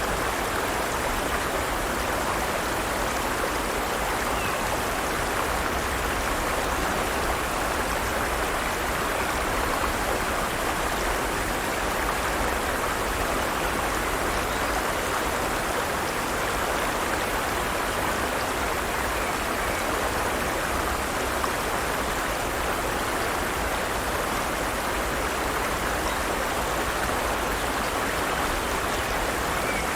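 Forest stream flowing steadily over rocks, a continuous even rush of water.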